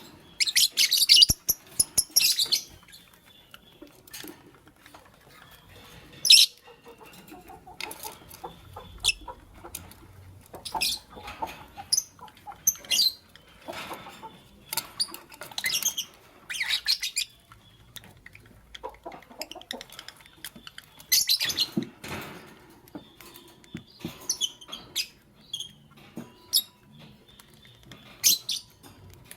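Fischer's lovebirds giving short, shrill chirps in scattered bursts, with a loud cluster about a second in and single sharp calls every few seconds after.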